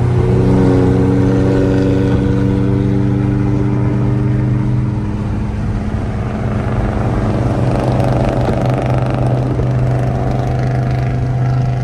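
Car engine running at a steady speed, a low even drone with no change in revs.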